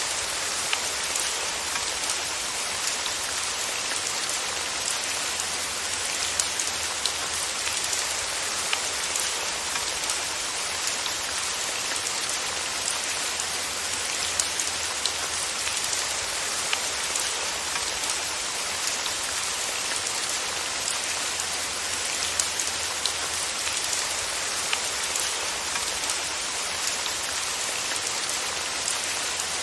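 Steady rain, with many small scattered drop ticks over an even hiss.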